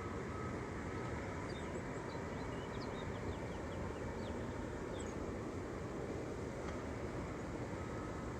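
Steady hum of distant city traffic, with a small bird chirping a quick run of short, high, falling notes from about a second and a half in.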